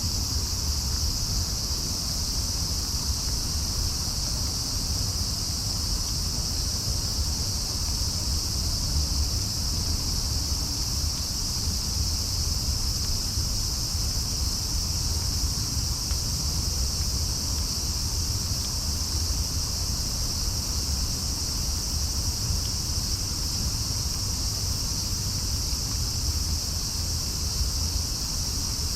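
Steady, unbroken chorus of night insects, crickets by its character, over a low constant rumble.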